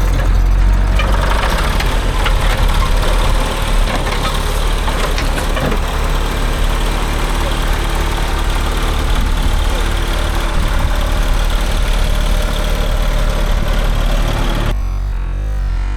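Allis-Chalmers HD5 bulldozer's GM 3-71 two-stroke diesel engine running steadily at idle.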